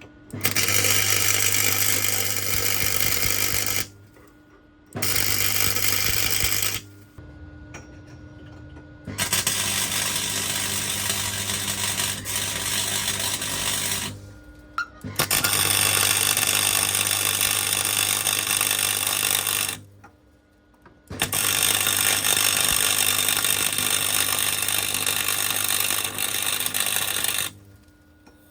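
Welder tack-welding steel tubes, running in five stretches of a few seconds each with short pauses between.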